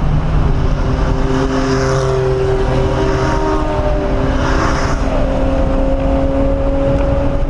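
1997 Mustang SVT Cobra's 4.6-litre DOHC V8 running at a steady part throttle, heard from inside the cabin, its pitch drifting slowly up and down. Two swells of rushing noise come and go about two and five seconds in.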